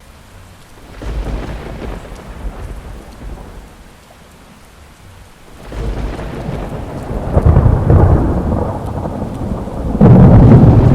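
Thunderstorm with rain: rolls of thunder rumble low over falling rain. One roll swells about a second in and fades by four seconds; another builds from about six seconds and grows louder, with a sudden loud clap near the end.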